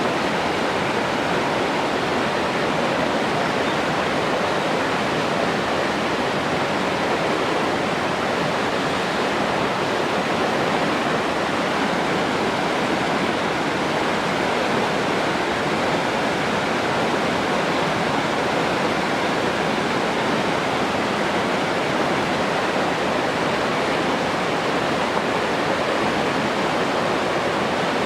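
Steady rushing water, a continuous even hiss like a waterfall or fast stream, with no changes or separate events.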